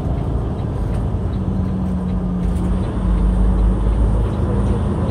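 Truck engine and road noise heard from inside the cab while driving with a loaded trailer: a steady low rumble with an engine hum that settles in about a second and a half in and grows a little louder toward the end.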